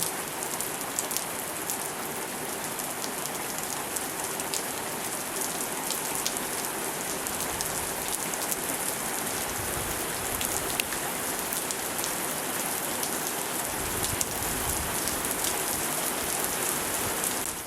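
Heavy freezing rain pouring down: a steady hiss with many small ticks of drops striking surfaces.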